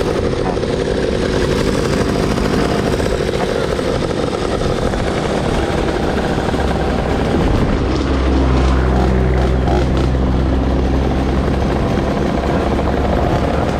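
Motorcycle engine running under steady wind-like noise. A deeper, even engine hum comes in about six seconds in and fades out near the end.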